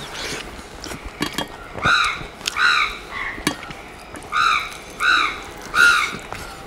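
A bird calling: five short, arching calls in two groups, two and then three. Faint clicks of eating by hand fall between the calls.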